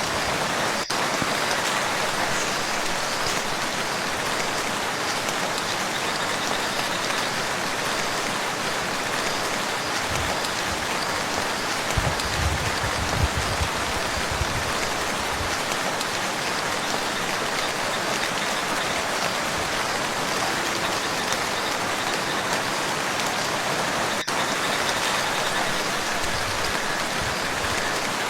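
Steady rain falling on a lake's surface, an even patter throughout, with a few low thumps about halfway through.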